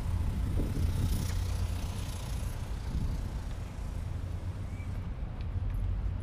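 Steady low outdoor rumble of street ambience, heaviest in the bass, with no speech.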